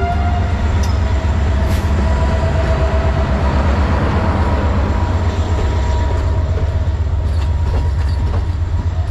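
Orient Express sleeping and dining carriages rolling slowly past along the platform: a loud, steady rumble of wheels on the rails with a thin, steady squeal over it.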